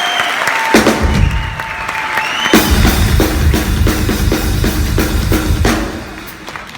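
Live drum kit solo: a heavy bass drum and cymbal hit, then a run of evenly spaced hits, about three a second, that ends about a second before the close. Crowd applause can be heard under the drums.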